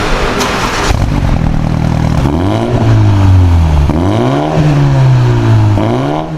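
BMW 330e G20's B48 2.0-litre turbocharged four-cylinder engine heard through its exhaust, revved in about three blips that rise and fall in pitch.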